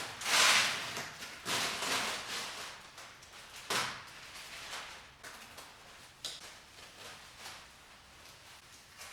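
A series of noisy scraping or sliding sounds, the loudest in the first four seconds and fainter after.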